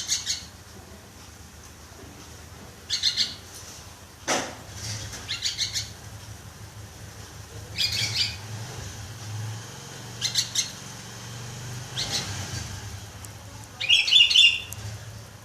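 Sooty-headed bulbul (kutilang) calling in short bursts of high chirps every couple of seconds, the loudest burst near the end, with a sharp click about four seconds in.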